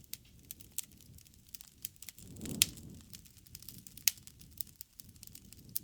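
Campfire crackling: burning wood snapping and popping in quick, irregular clicks over a low rumble of flames, with a louder pop about two and a half seconds in and another about four seconds in.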